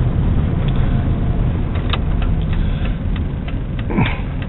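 Truck engine and road noise heard inside the cab while driving, a steady low rumble, with a few light clicks in the middle.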